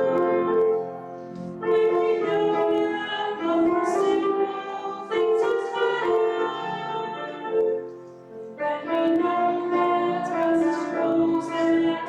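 A hymn being sung to piano accompaniment, with long held notes in phrases and short pauses for breath about a second in and again about eight seconds in.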